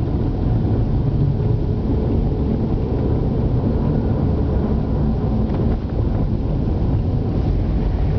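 Car driving along: a steady low rumble of engine and tyres on the road.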